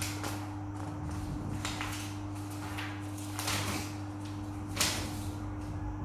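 Steady low hum with scattered soft clicks and rustling, and a sharper click about five seconds in.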